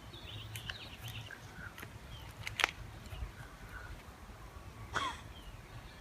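Outdoor ambience with a low rumble, a few faint bird chirps and several sharp clicks or snaps; the loudest snap is about two and a half seconds in, and another comes near the end.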